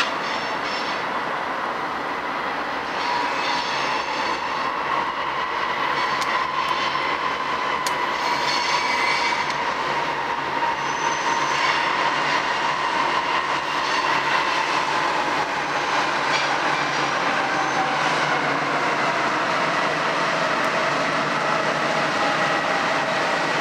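Freight train led by BNSF and CN diesel-electric locomotives passing close by, the locomotives and cars rolling steadily over the rails. A steady high whine runs through it and slowly drops in pitch.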